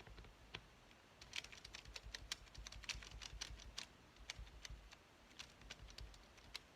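Faint, irregular light taps and clicks of fingers handling a small paper piece and pressing it down onto a journal page. The taps are quickest in the middle.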